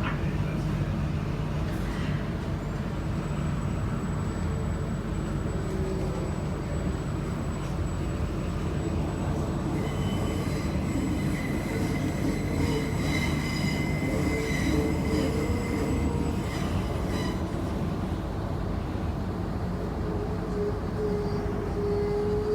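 IMU 100 electric train running on the track, heard from inside the carriage as a steady rumble, slowing into a station. About ten seconds in, high-pitched wheel squeal sets in and lasts about seven seconds.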